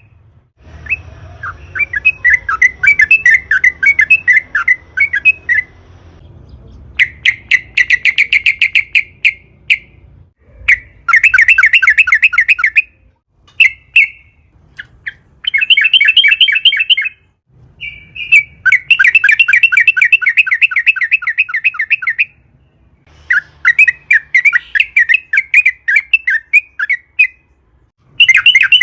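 Yellow-vented bulbul (trucukan) singing long, rapid chattering phrases of quick repeated notes, about eight bursts of one to four seconds each with short pauses between them. This is the kind of long-rolling song played to lure or set off other bulbuls into singing.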